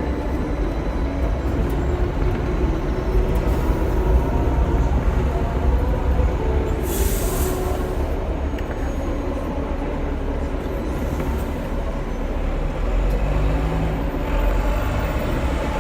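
Hong Kong tram running along its rails, a steady low rumble of wheels and running gear, with a short hiss about seven seconds in.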